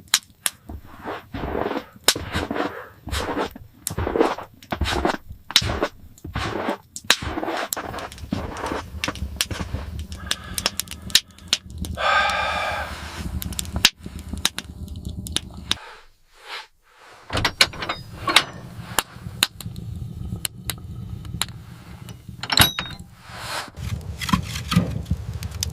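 A string of irregular knocks and thuds mixed with scraping, the sound of hand work on something hard. A short voice-like sound comes about halfway through, and the knocking stops for about a second a little later.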